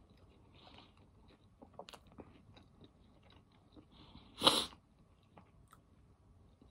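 A person chewing a bite of a crispy chicken sandwich: faint soft mouth clicks and smacks. About four and a half seconds in there is a short, louder voiced sound from the throat.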